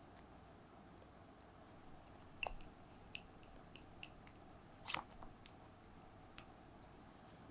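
Near silence: quiet room tone with a few faint, short clicks and taps, the clearest about two and a half and five seconds in.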